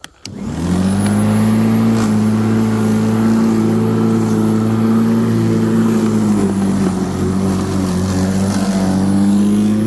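Black & Decker 1800W electric rotary lawnmower switched on with a click, its motor spinning up within half a second and then running steadily with a drone and a faint high whine as it cuts grass.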